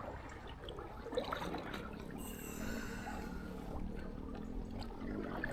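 Faint river water trickling and lapping around an inflatable kayak, with paddle drips.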